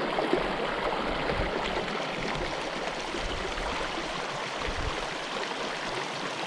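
Mountain creek running steadily: a constant, even rush of water.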